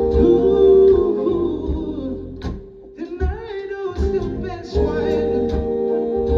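Live band music: a singer's wordless vocal runs over sustained keyboard chords and a drum beat.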